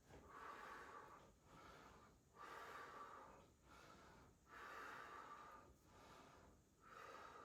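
A woman breathing hard and rhythmically, out of breath from burpees and push-ups, with even breaths in and out about once a second.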